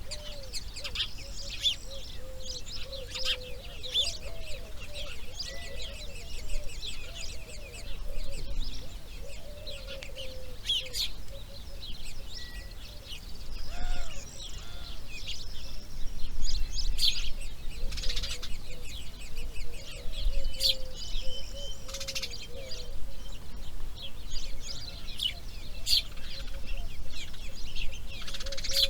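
Bird calls: many short, high chirps and clicks scattered throughout, over a steady string of small repeated lower notes.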